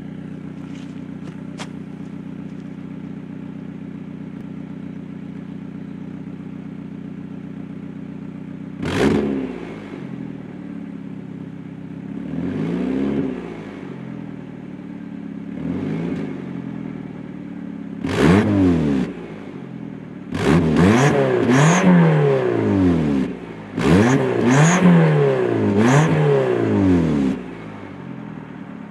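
2001 Nissan Altima's 2.4-litre four-cylinder running through an aftermarket Cherry Bomb turbo muffler and exhaust tip. It idles steadily, is blipped sharply about nine seconds in, revved a few more times at spaced intervals, then given a run of quick repeated revs near the end before dropping back to idle.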